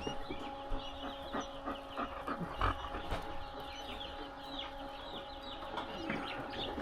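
Many newly hatched quail chicks peeping continuously, a dense run of short, high, falling cheeps, over a steady hum, with a few soft knocks of handling.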